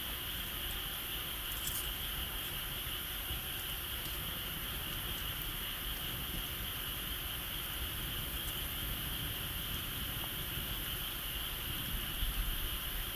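Steady chorus of insects trilling, a continuous high-pitched ringing, with a few faint clicks or pops here and there.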